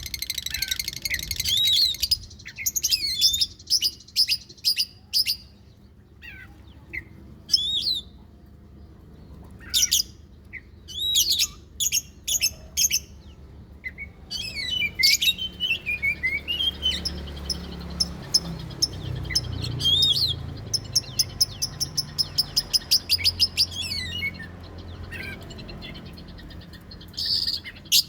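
Oriental magpie-robin (kacer) song: loud whistled notes and pitch sweeps, broken by short gaps. From about the middle onward come long runs of quick repeated notes. It is an agitated song of the kind used as a lure to provoke other kacer.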